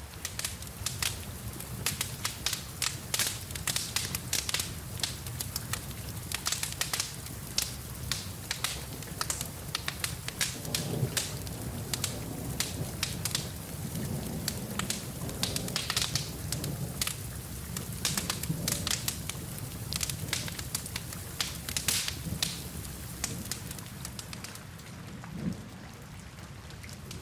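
Wood fire crackling in a fireplace, with many sharp irregular pops, over steady rain and a low rumble.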